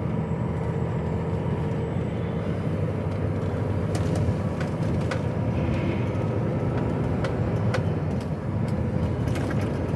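Diesel engine of an HGV truck running steadily, heard from inside the cab as a low even hum, with a few light clicks.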